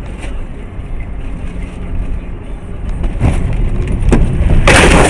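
Car on the move: a steady low rumble of engine and road noise that grows louder after about three seconds, ending in a loud, harsh burst of noise near the end.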